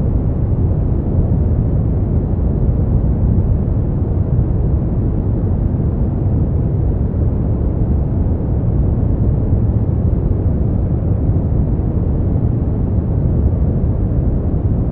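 Brown noise: a steady, deep rushing hiss with most of its weight in the low end and little above the mids, unchanging throughout.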